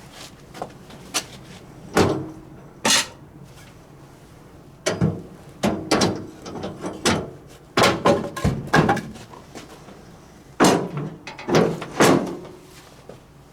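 A series of irregular knocks and thuds, around a dozen of them, some followed by a short ring.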